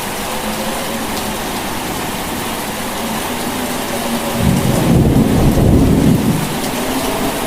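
Steady rain hissing, with a low rumble of thunder rising about four and a half seconds in and fading after about two seconds.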